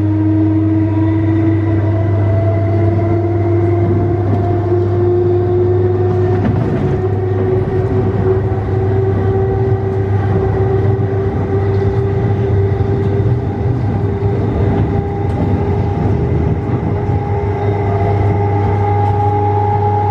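Nose-suspended traction motors of an MTR East Rail MLR electric train whining under power, the motor note rising slowly and steadily as the train gathers speed, over a steady low hum.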